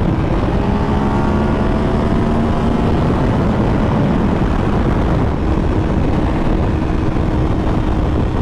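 2015 Yamaha R1's crossplane inline-four with a Yoshimura exhaust, accelerating under way: its pitch climbs over the first few seconds, then holds steady at cruise. Heavy wind rush on the helmet microphone runs under it.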